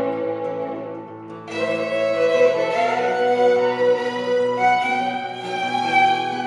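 Instrumental music: a fiddle plays long held notes over a low sustained bass note. The notes fade about a second in, and a new phrase starts about a second and a half in.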